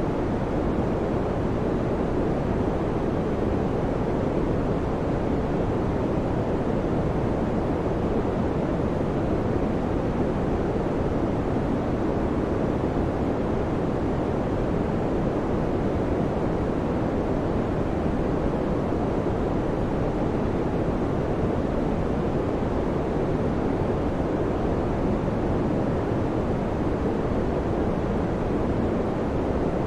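Electric fan running steadily: an even rush of air noise, deep rather than hissy, with no hum, rattle or rhythm.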